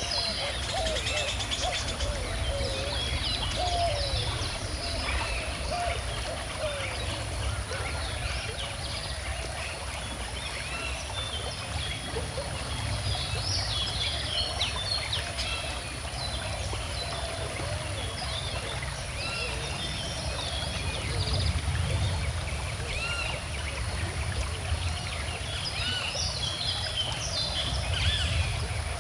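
Steady rush of water flowing in a calm river, with many birds chirping and singing over it in short, repeated calls.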